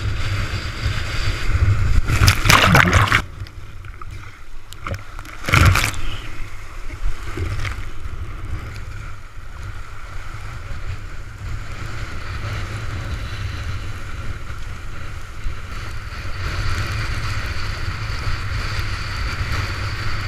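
Windsurf board planing fast through rough storm water, with strong wind rumbling on the microphone. There are two loud splashes of spray, about two seconds in and again just before six seconds, then a steady rush of water.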